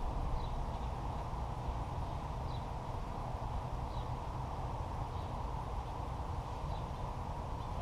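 Steady outdoor background rumble with faint, short bird chirps every second or two.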